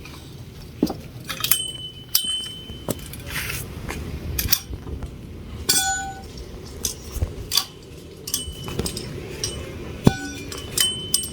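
Metal parts of a bird feeder stand being handled: irregular light clinks and knocks, some leaving a short high metallic ring.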